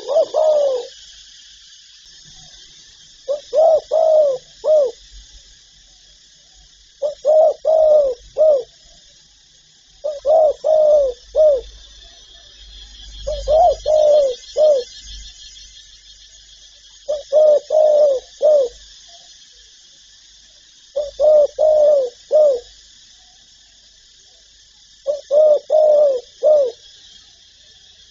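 Spotted dove cooing: a short phrase of three or four coos, repeated about every four seconds, seven times. A steady faint high hiss runs underneath.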